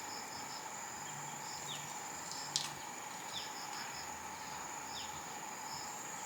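Insects, crickets among them, trilling steadily in a high tone, with groups of short repeated chirps and a few small falling chirps. There is one sharp click a little over two and a half seconds in.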